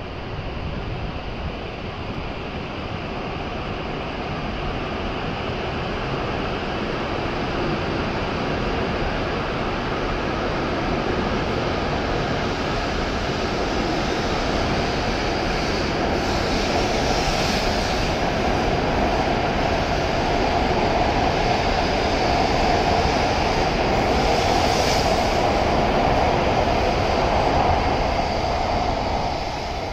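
E7-series Shinkansen pulling out of the station and gathering speed alongside the platform: the wheel and traction-motor running noise grows steadily louder, with two brief hissing swells partway through, then falls away near the end as the last car clears.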